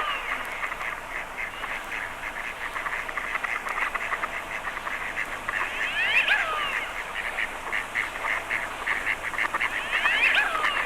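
Drake pochards' display calls: a wheezy whistle that swoops up and down, heard at the start, about six seconds in and near the end, over a fast run of short repeated notes.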